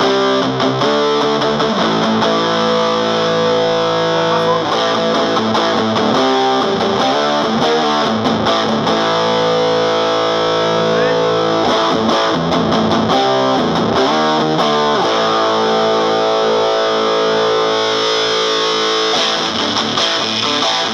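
Electric guitar played through a Round Digital Sound GX-25 25-watt combo amp on its distortion channel, with heavy gain. Distorted chords are held for a few seconds each, with quick strummed changes between them.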